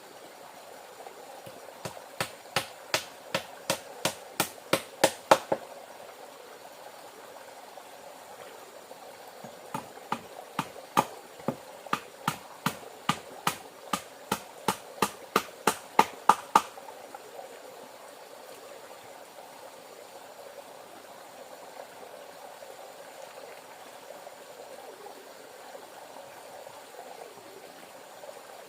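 Two runs of rapid, sharp knocks, about three a second, like hammering: a short run a couple of seconds in and a longer one from about ten seconds in. A steady rush of flowing water lies under them.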